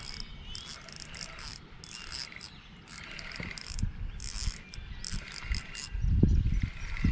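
Fishing reel being cranked to bring in a hooked small smallmouth bass, its mechanism clicking and whirring in short repeated bursts. Heavy low thumps come in near the end.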